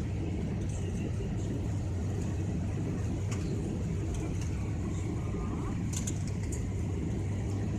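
Airliner cabin noise: a steady low drone of engines and airflow as the plane comes in to land.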